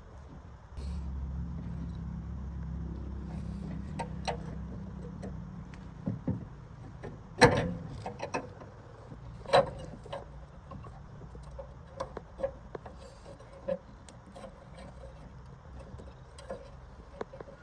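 A low engine rumble that starts abruptly about a second in and dies away after about six seconds, followed by scattered metallic clanks and knocks; the loudest knocks come about seven and a half and nine and a half seconds in.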